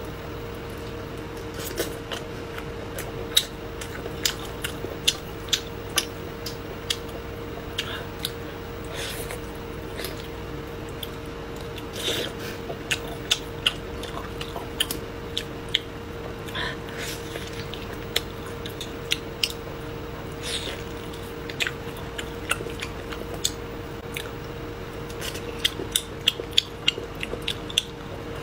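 Close-up eating sounds: biting and chewing boiled beef rib meat with its tendon membrane, with many sharp, wet mouth clicks and smacks, coming thicker near the end. A faint steady hum runs underneath.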